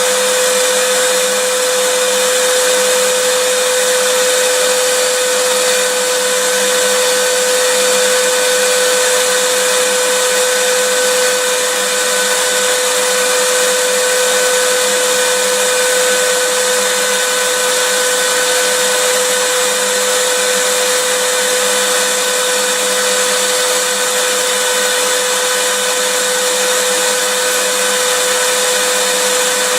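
Vacuum cleaner running steadily: an unchanging rush of air with a steady mid-pitched motor whine.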